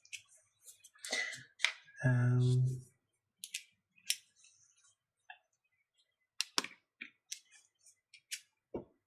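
Scattered clicks and scrapes of small tools working on a watch casing, with a short loud buzz about two seconds in.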